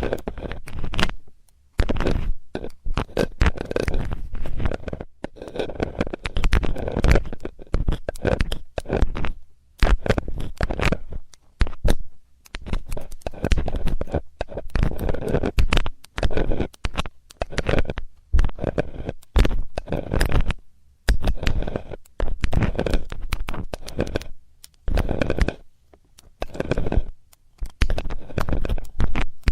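Metal ear-cleaning tool scraping and rubbing close to the microphone, in repeated scratchy strokes of about a second with short pauses between.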